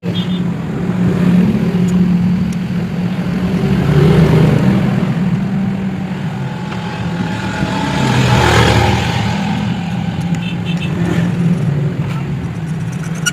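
Motorcycle engine running steadily, with a swell in the sound about eight to nine seconds in.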